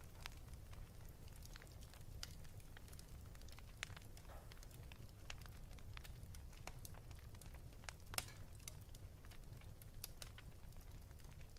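Fireplace fire crackling: irregular faint pops and snaps over a low steady rumble, with the sharpest pop about eight seconds in.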